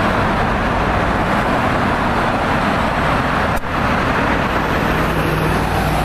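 Steady, loud engine roar with a low hum under it, with a brief dropout about three and a half seconds in.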